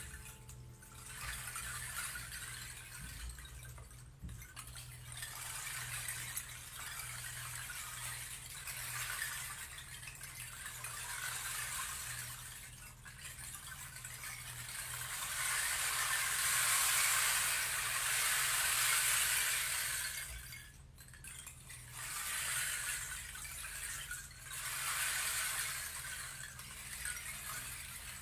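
Stream water running, a steady rush that swells and fades, loudest about halfway through, with a few brief dips.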